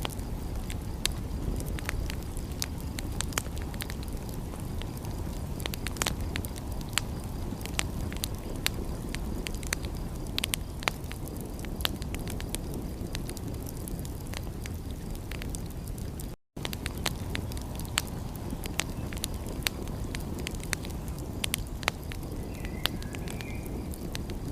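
Wood fire crackling and popping in irregular sharp snaps over a steady low rumble. The sound cuts out completely for a moment about two-thirds of the way through.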